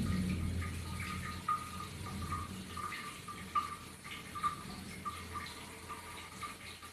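Water running steadily from the shower of an electric instant water heater, with a low hum underneath.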